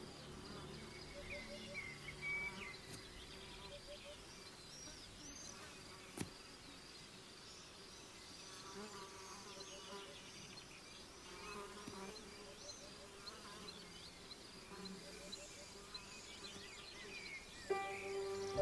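Buzzing insects with scattered short bird chirps and trills, fairly quiet; one sharp click about six seconds in, and music begins near the end.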